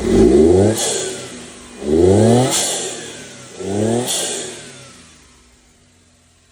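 Turbocharged Suzuki Carry kei truck engine revved three times with the air filter removed, each blip followed by a sharp hiss as the throttle closes: the blow-off valve venting, with a faint turbo whistle rising and falling. The engine drops back to a quiet idle near the end.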